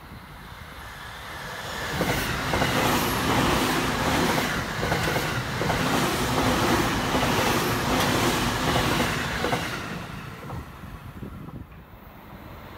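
A JR Takasaki Line suburban electric train passing close by: the noise of its wheels on the rails swells over about two seconds, holds steady while the cars go past, then fades away near the end.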